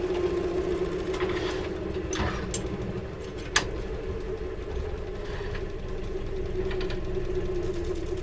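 Electric motor of a woodworking machine running steadily with a constant hum, with a few sharp clicks or knocks from the work about two and three and a half seconds in.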